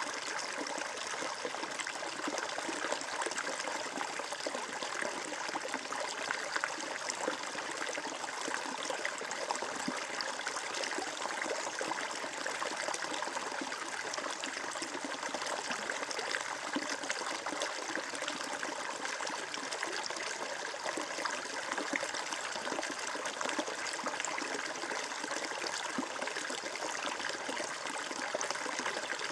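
Flowing water trickling steadily, like a small stream, with an even splashing wash and little low rumble.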